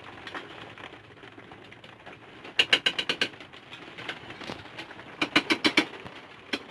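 Two short runs of rapid, sharp mechanical clicks, each lasting under a second, separated by a couple of seconds.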